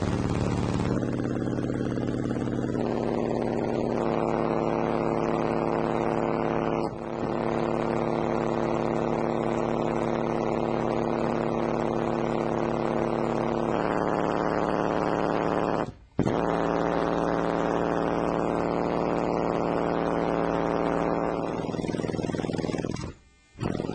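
Two Soundstream dB Extreme subwoofers playing very low bass test tones between 15 and 20 Hz, loud and steady with a dense buzz of overtones. The tone steps to a new pitch several times and cuts out briefly twice, once about two-thirds of the way in and again near the end.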